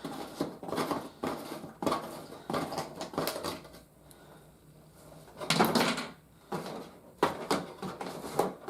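Handling noise of a toy being freed from its box: repeated clicks, knocks and rustles of plastic parts and cardboard packaging as fasteners are undone, with a louder rustle about five and a half seconds in.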